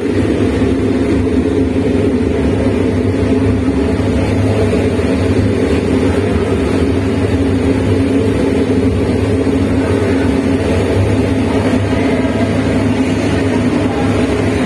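Oil-fired furnace burner running with a loud, steady roar and low hum that holds level throughout.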